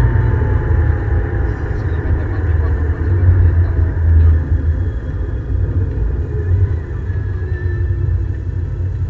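A Ford Escort XR3i's 1.8-litre 16-valve four-cylinder engine and road rumble, heard inside the cabin. The engine note falls over the first couple of seconds, and the sound eases off later as the car slows for a tight bend.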